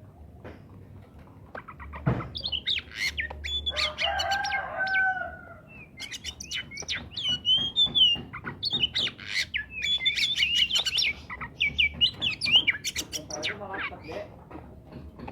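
Oriental magpie-robin (kacer) singing a fast, varied song of chirps and whistles, starting about two seconds in.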